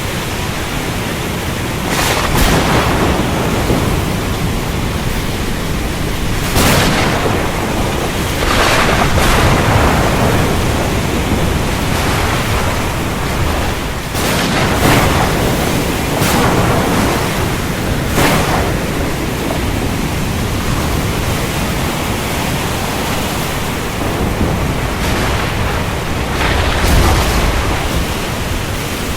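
Heavy rain falling steadily, broken by sharp cracks of thunder every few seconds, about seven in all, each fading off quickly.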